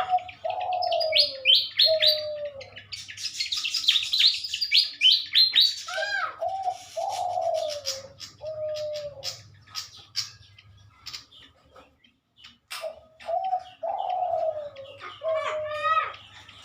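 Birds calling: quick runs of high chirps, which fit the pied fantails, over a lower call of three or four falling notes that comes three times, at the start, about six seconds in and near the end.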